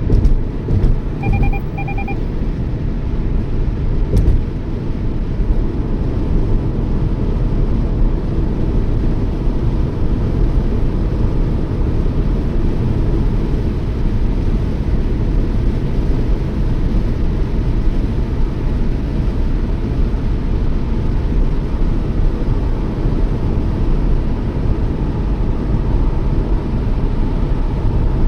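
Steady road and engine rumble inside a Toyota Yaris cabin while driving at speed. Two short electronic beeps from the car sound about a second and a half in.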